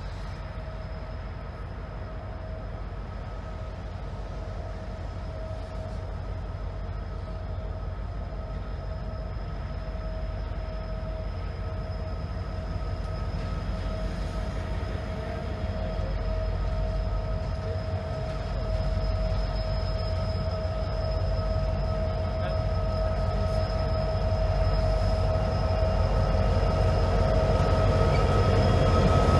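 Train led by a diesel locomotive approaching, a low rumble growing steadily louder as it nears, with a faint steady tone over it.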